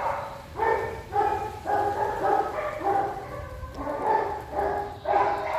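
Pinscher barking over and over, short pitched barks at about two a second.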